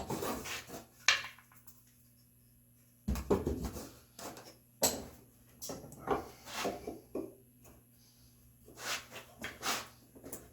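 Chisel work in a red oak mortise: irregular knocks and short scraping strokes, with a pause of about a second and a half early on.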